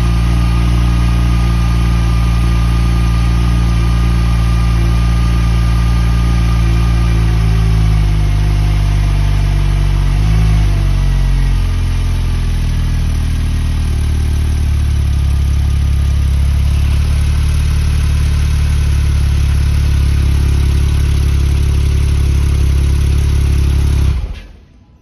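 Porsche 991.2 Turbo S's twin-turbo 3.8-litre flat-six idling after a cold start. The fast cold idle steps down to a lower, steady idle about eight seconds in as the engine warms. The sound cuts off near the end.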